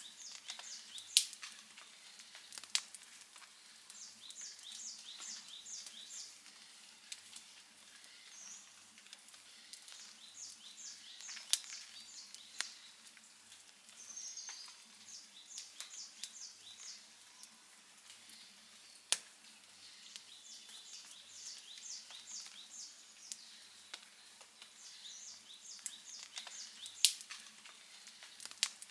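Campfire crackling softly, with a few sharp pops, the loudest about a second in and near the end. Behind it, runs of short high chirps repeat every few seconds.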